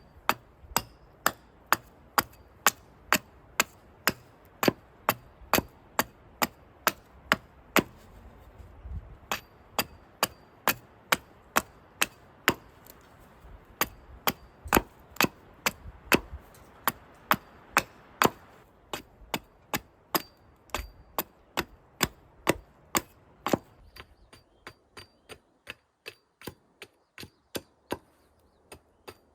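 A hand tool strikes over and over at a steady pace, about two blows a second, each with a short, bright ring. The blows grow lighter and more uneven over the last few seconds.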